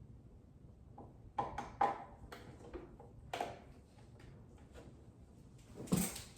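Scattered light knocks and clicks of plastic parts and cords being handled while a sewing machine's power cord and foot controller are plugged in, the loudest knock near the end.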